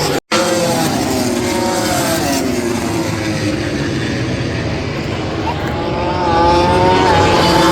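Racing motorcycles on the circuit, their engines shrieking and changing pitch as they pass. There is a short break in the sound just after the start. About six seconds in, one engine note grows louder and rises.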